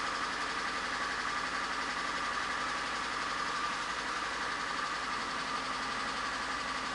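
VAZ-21124 1.6-litre 16-valve engine idling with a steady, rapid rhythmic knock. It is running rough on three cylinders, a misfire that a new ignition coil has not cured.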